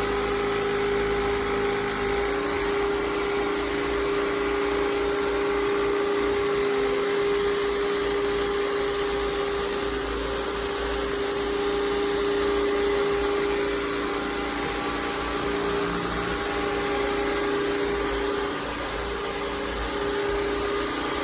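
Vacuum cleaner running steadily: an even motor noise with a constant hum, dipping slightly in loudness near the end.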